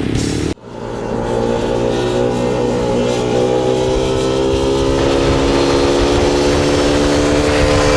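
Motorcycle engine pulling under acceleration, its pitch rising slowly and steadily for several seconds. It comes in after an abrupt cut about half a second in.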